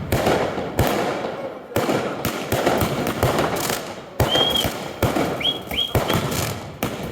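Fireworks display: a rapid run of loud bangs and crackling bursts, each echoing off before the next. A few short high whistles come a little past the middle.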